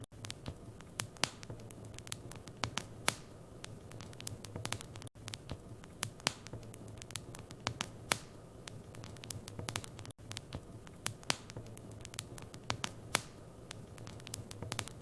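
Wood fire in a fireplace crackling, with irregular sharp pops and snaps over a steady low hum. The sound cuts out for an instant about every five seconds.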